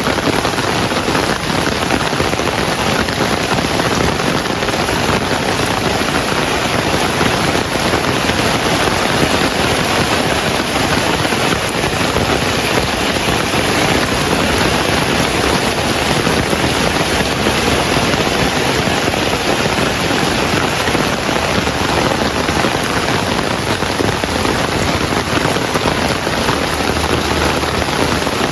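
Heavy rain falling steadily, a dense, even patter that keeps up without let-up.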